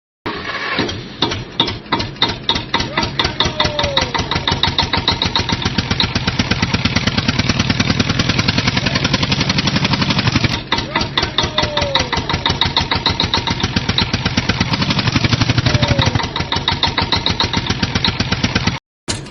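Engine running with a fast, even chugging beat, in the manner of a tractor engine. The low end swells twice, as if the engine labours harder for a few seconds, before the sound cuts off suddenly near the end.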